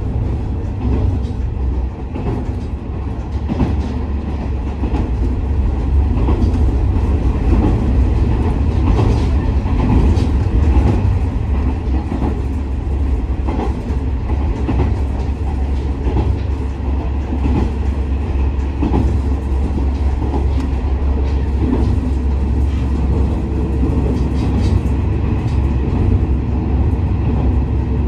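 Inside a KiHa 47 diesel railcar running along the line: a steady low diesel drone and wheel-on-rail rumble, with scattered clicks from the wheels and rail joints.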